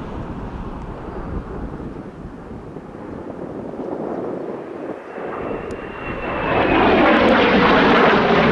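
Jet noise from a Blue Impulse Kawasaki T-4 jet trainer, building as the jet comes in and loud from about two-thirds of the way through. A high whine slides down in pitch as it passes.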